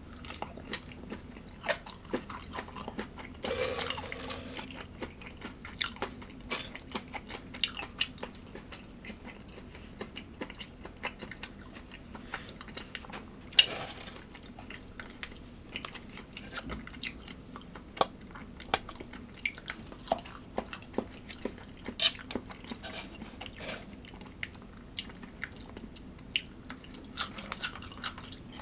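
A person chewing and crunching food close to the microphone, with many short irregular crackles and clicks. A louder crunching stretch comes about four seconds in, and a few sharp clicks stand out later.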